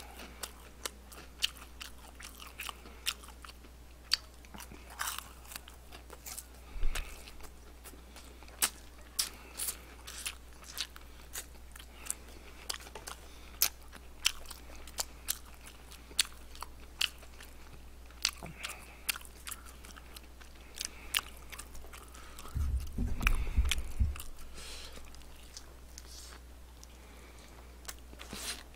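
Close-miked chewing and crunching of crispy fried chicken, with many sharp crunches spread throughout. About three quarters of the way through, a couple of seconds of low bumping noise is the loudest sound.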